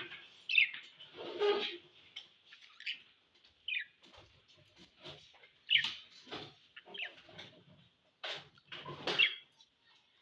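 Budgerigars chirping and chattering: short, scattered calls, several with quick downward-sliding notes, the loudest near the start and about nine seconds in.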